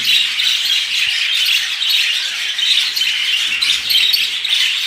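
Many caged pet birds, cockatiels among them, chattering and squawking all at once in a dense, unbroken din.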